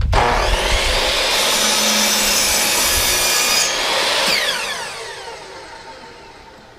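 Electric power saw starting up and cutting through a wooden board, then switched off and winding down, its pitch falling as it fades out.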